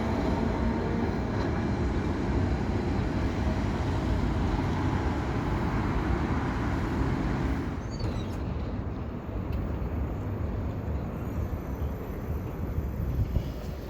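ATM Series 1500 Peter Witt tram running on street track, a steady rumble that drops away about eight seconds in, leaving a quieter low rumble.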